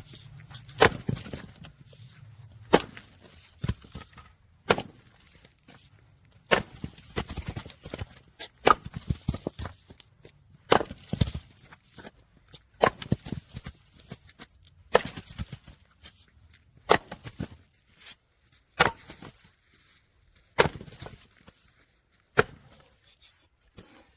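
Firewood being split by a log-splitting machine: a sharp crack of wood splitting about every two seconds, a dozen times in a row, some followed by the clatter of split pieces falling.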